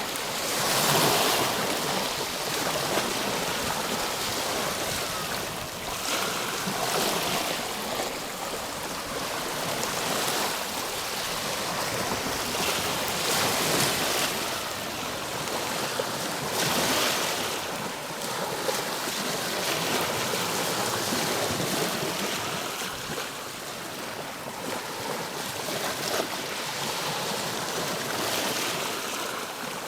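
Ocean waves: a steady rush of surf that swells louder every few seconds as waves break and wash in.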